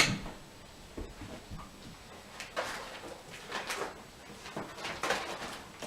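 Handling sounds from the model locomotive's packaging: a sharp click, a few small knocks, then short bursts of rustling and scraping.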